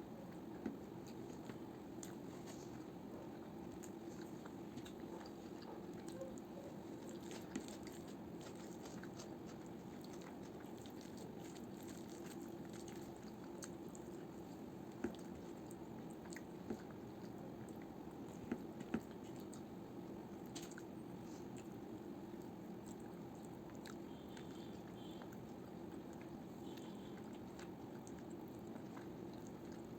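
A person chewing and biting food, with scattered small clicks and a few sharper ones, over a steady low hum.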